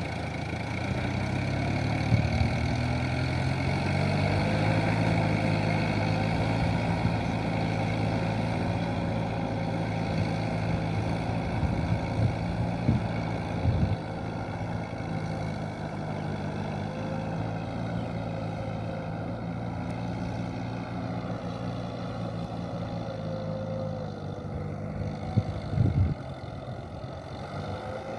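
Kubota M7040SU tractor's diesel engine running steadily under ploughing load, with a few short knocks in the middle and near the end.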